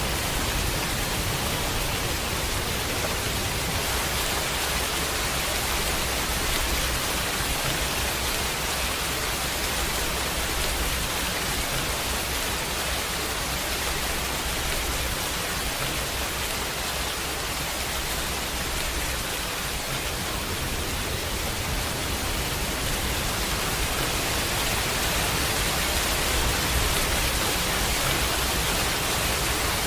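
Steady heavy rain, an even hiss of downpour without let-up.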